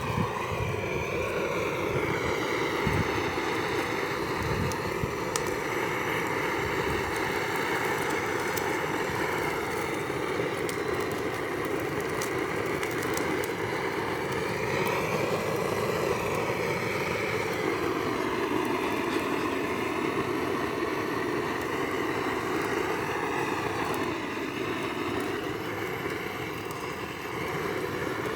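Gas torch flame burning with a steady rushing noise while singeing the feathers off plucked chickens, with light crackles in the first half.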